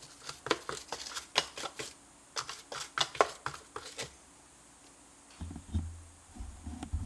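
Small cleaning brush scrubbing and flicking inside the burr chamber of a Breville Barista Express grinder, a quick, irregular run of dry scratchy strokes and ticks for about four seconds, clearing out leftover coffee grounds. A low rumble of handling comes in near the end.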